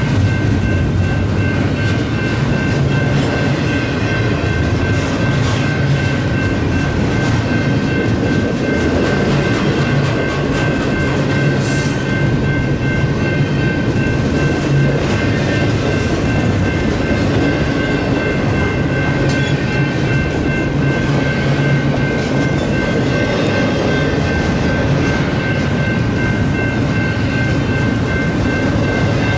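Double-stack intermodal freight cars rolling past with a steady rumble and wheel clatter, while the grade crossing's NEG electronic bell rings steadily throughout.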